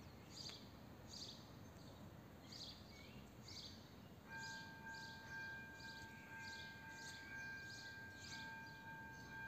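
Faint rhythmic high chirps, about two a second, and from about four seconds in a steady two-note electronic tone starting up and holding: the AŽD 97 level-crossing warning sounder coming on as the crossing closes for an approaching train.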